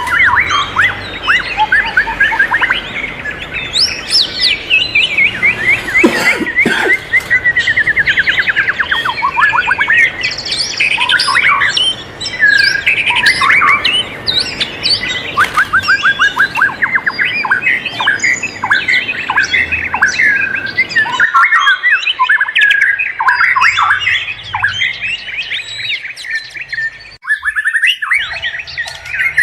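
Several wild forest birds calling and singing at once: overlapping chirps and fast trills of quickly repeated, downward-sweeping notes, with a brief break near the end.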